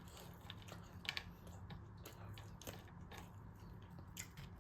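Faint close-up chewing, soft irregular clicks and smacks from the mouth, over a low steady hum.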